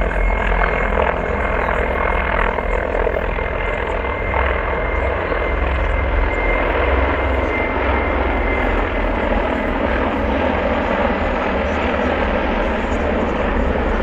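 Mi-35 attack helicopter flying past, its rotor and turbine noise loud and steady.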